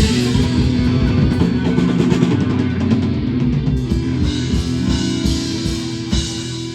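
Rock band playing an instrumental passage: guitar over a drum kit, with sharp drum hits in the second half.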